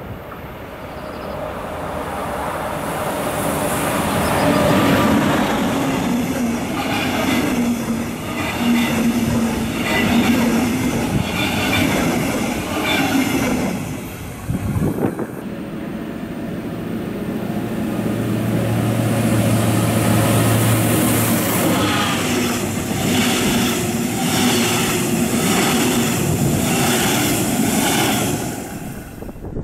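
Metronom double-deck passenger trains passing close by, one after the other: the first, led by a class 246 diesel locomotive, grows loud with a steady engine note and a quick rhythmic clatter of wheels over the rail joints, then cuts off sharply about halfway through; the second sweeps past with the same quick run of wheel clatter near the end.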